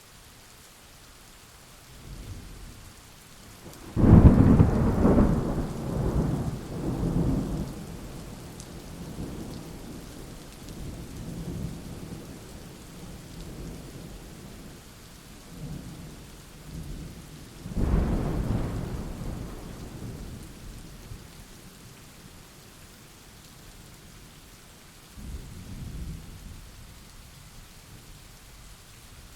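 Steady rain with thunder: a loud, sudden thunderclap about four seconds in that rumbles on for several seconds, a second clap about eighteen seconds in, and fainter rumbles between.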